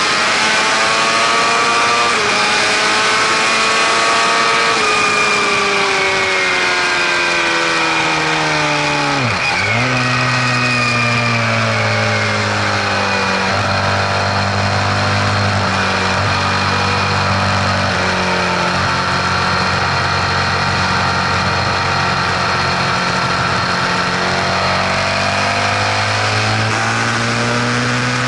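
Vehicle engine running, its note falling over the first nine seconds, dipping sharply, holding low and steady, then climbing again near the end, with a thin high whine above it. This is what the owner questions as an unfamiliar mechanical noise.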